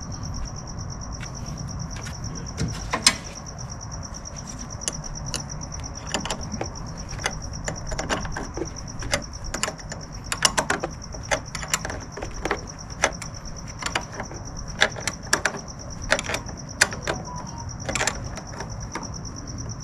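Irregular metallic clicks, taps and scrapes of hand tools working on the car battery's terminals and clamps, over a steady high-pitched insect trill.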